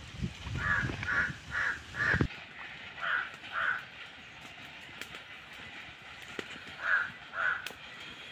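A bird cawing: short harsh calls, four in quick succession in the first two seconds, then a pair about three seconds in and another pair near the end. A low rumble underlies the first two seconds and stops abruptly.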